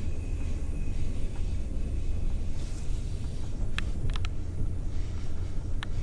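Train running: a steady low rumble, with a few sharp clicks a little past midway and one more near the end.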